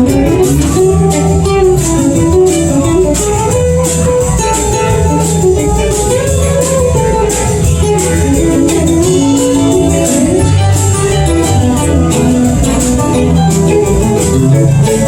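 Live band playing an instrumental break, a guitar taking melodic runs over bass and drums.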